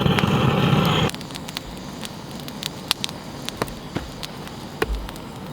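Wood fire crackling, with scattered sharp pops at irregular intervals. A louder sound cuts off abruptly about a second in.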